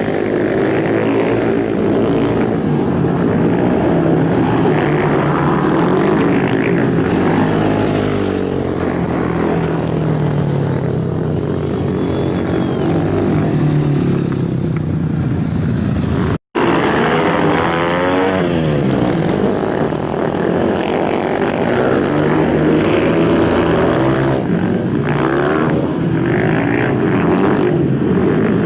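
Several superbike engines running hard together, their overlapping engine notes gliding up and down in pitch as bikes pass. The sound cuts out for a split second just past halfway, then resumes.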